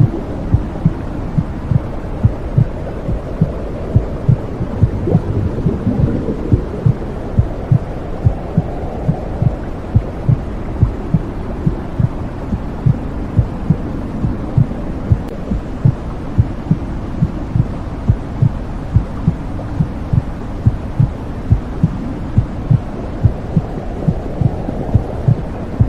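Womb sound: a steady heartbeat thumping in a regular rhythm, muffled, over a continuous low whooshing rumble.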